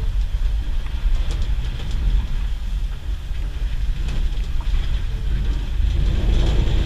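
Songthaew pickup-truck taxi driving along a narrow lane, its engine and road noise a steady low rumble heard from the open rear passenger bed.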